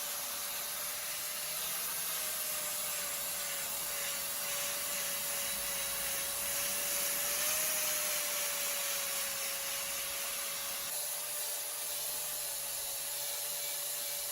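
Small electric power tool running steadily, a constant motor whine under a hiss of abrasive work such as sanding or polishing.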